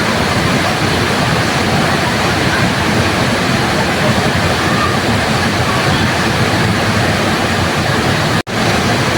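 Waterfall pouring in a steady, dense rush of water noise. The sound cuts out for an instant near the end and comes straight back.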